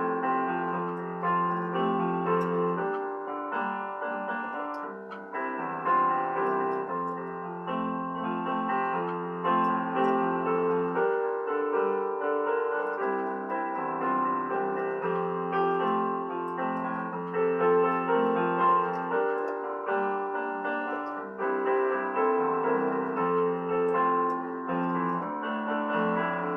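Piano music: slow, sustained chords with a melody, played continuously.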